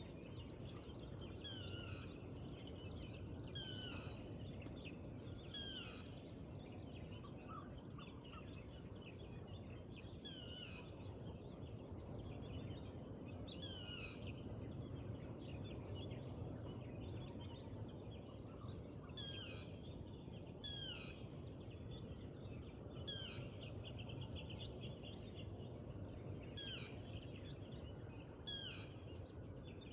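Forest birdsong: birds repeating short, quickly falling calls every second or two, over a steady high tone and a low rumble.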